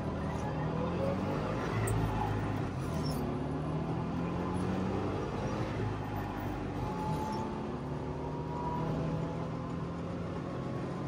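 Trabant 601's two-stroke twin-cylinder engine running under way, its note rising and falling as the car drives.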